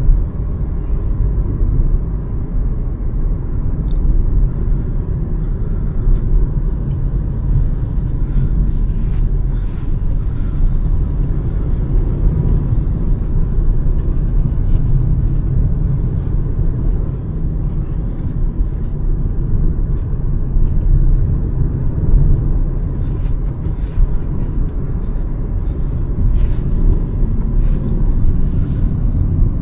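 Hyundai Verna 1.5 turbo petrol car on the move, its engine and road noise making a steady deep rumble. Faint short ticks come and go over it.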